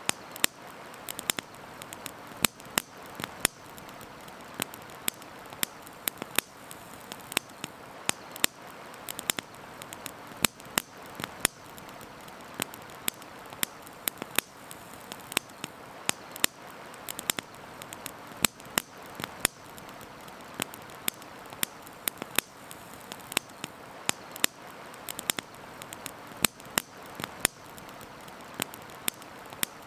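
Campfire crackling, with frequent irregular sharp pops and snaps of burning wood over a steady hiss.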